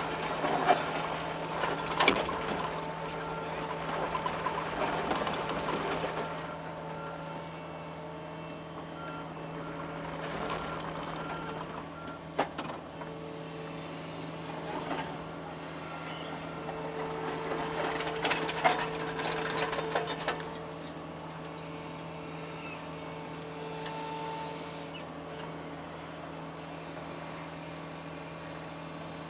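John Deere 75 excavator running steadily while digging, with two louder spells of working noise and a few sharp metallic clanks, about two seconds in, around twelve seconds and around nineteen seconds.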